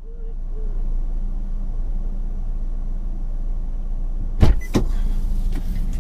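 Car running, with a steady low rumble of engine and road noise. Two sharp knocks come close together about four and a half seconds in.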